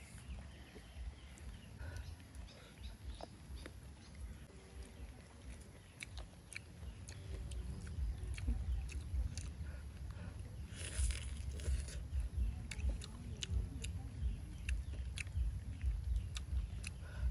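Close-up eating sounds: biting and crunchy chewing of raw vegetables, many short sharp clicks, getting somewhat louder about halfway through.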